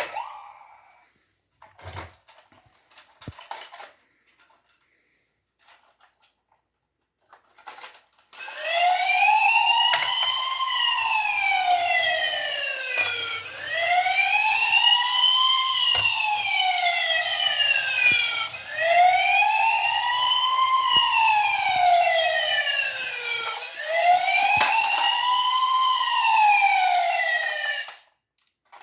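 Battery-powered toy rescue robot's electronic siren, wailing up and down in pitch about every four seconds. It starts about eight seconds in after a few handling clicks and cuts off suddenly near the end.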